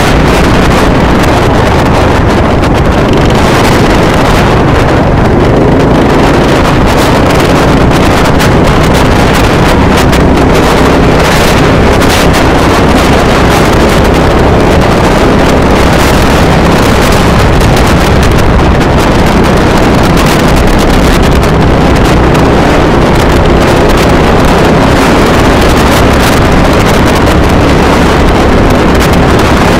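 Motorcycle engine running steadily while under way, with heavy wind noise on the microphone.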